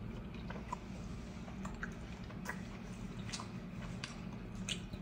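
A person chewing a mouthful of baked rotini pasta: faint, wet, irregular mouth clicks over a low steady hum.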